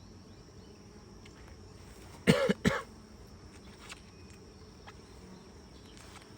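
A person coughs twice in quick succession, a little over two seconds in, over the steady hum of honey bees at an open hive.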